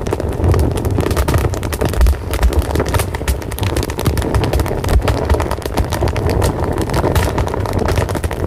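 Fire crackling, with many sharp irregular pops and snaps over a steady low roar.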